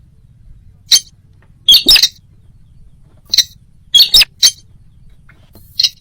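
Short, sharp sintar bird calls, one to three at a time about a second apart, the recorded lure call played to attract the bird.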